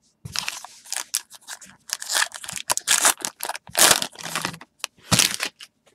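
Baseball trading cards and their packaging being handled close to the microphone: a string of irregular rustling, crinkling and sharp scraping strokes, with a short pause about five seconds in.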